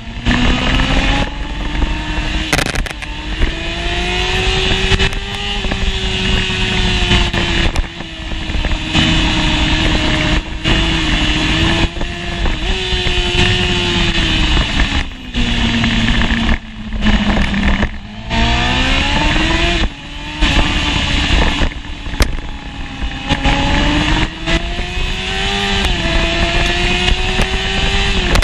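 1988 Honda CBR600F1's inline-four engine at racing revs, heard from on board the bike: the pitch climbs as it accelerates through the gears with short breaks at the shifts. About halfway through it drops away as the bike shifts down, then climbs again.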